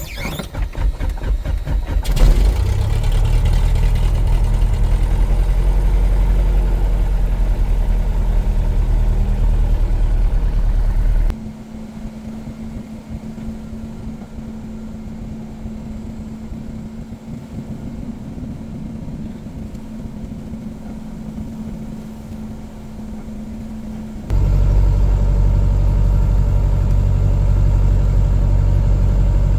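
Light aircraft piston engine of a Cessna 177 Cardinal being started: the starter cranks for about two seconds, then the engine catches and runs steadily at idle. About eleven seconds in the sound cuts abruptly to a quieter steady hum with one constant tone, and about 24 seconds in the loud engine running returns just as suddenly.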